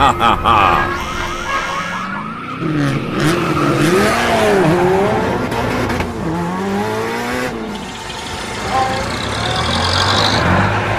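Sports-car engine sound effect revving up and down several times as the car accelerates away, with a siren warbling briefly at the start.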